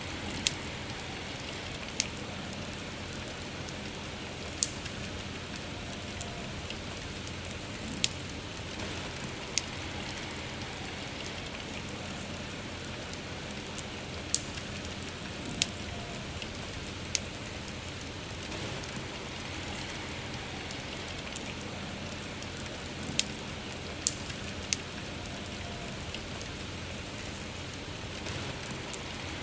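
Soft rain falling steadily while a wood fire crackles, giving single sharp pops at irregular intervals of one to a few seconds.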